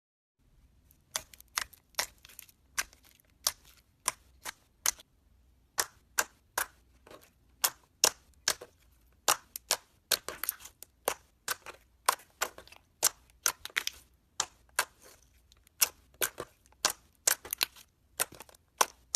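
Slime being squeezed and poked by hand, making a series of sharp, irregular pops and clicks, about two or three a second, starting about a second in.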